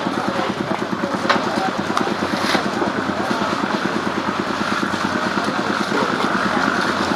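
An engine running steadily with an even, rapid pulse, and a couple of sharp clicks over it.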